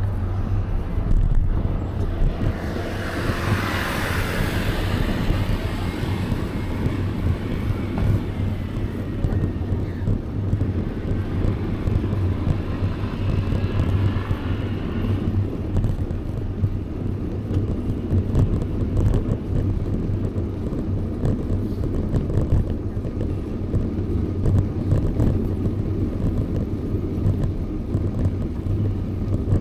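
Steady low wind rumble on the microphone of a camera riding a bicycle, with traffic noise in the background. A louder swell of passing noise rises and falls about three to five seconds in.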